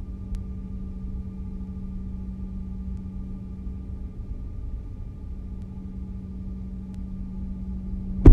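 Cabin noise inside a Canadair regional jet taxiing on idling jet engines: a steady low rumble under a constant hum.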